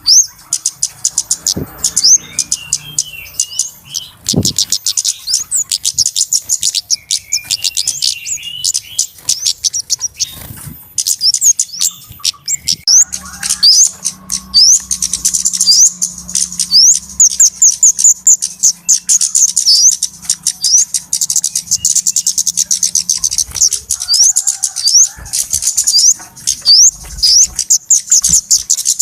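Flowerpeckers (kemade / cabe-cabean) calling as a bird-lure recording: a dense, continuous run of thin, high-pitched chips and short rising notes, several a second, with brief lower warbling phrases in the first few seconds.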